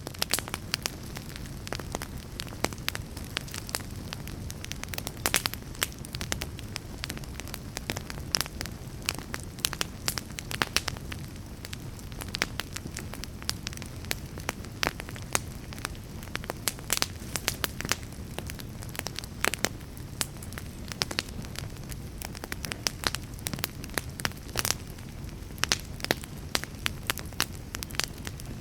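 Fire crackling: a steady low rumble of flames under frequent, irregular sharp pops and snaps.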